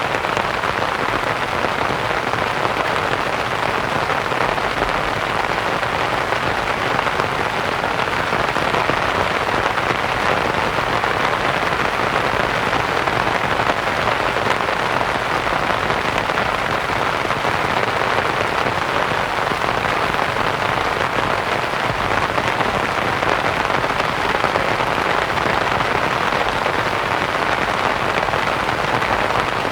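Steady rain pattering on a canvas tent, mixed with soft white noise.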